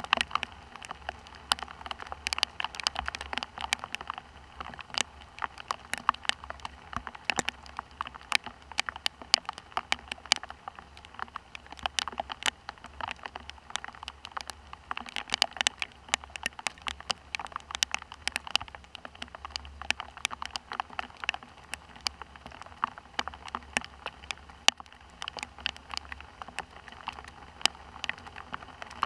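Rain falling steadily, with dense, irregular ticks of drops hitting a hard surface close to the microphone over a steady hiss. A faint low hum runs underneath.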